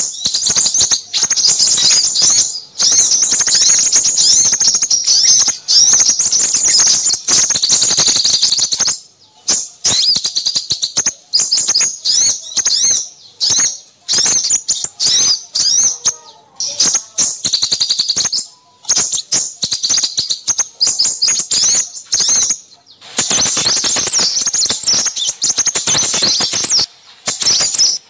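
Recorded chorus of many small birds twittering and chirping rapidly at once, high-pitched, played as a lure for crimson sunbirds. The calls are packed densely for the first third, thin out into scattered chirps in the middle, and crowd together again near the end.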